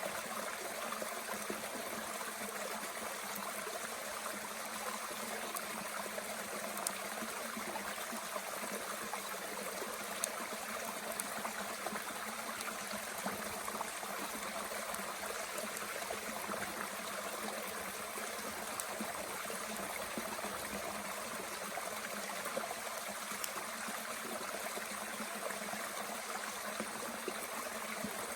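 Mountain stream flowing steadily, a constant rush of water, with a few faint sharp crackles from the small wood fire burning in a Bushbox stove.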